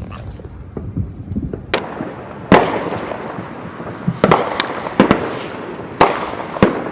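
Aerial fireworks bursting: a run of sharp booms starting about two seconds in, each followed by a rumbling echo and crackle.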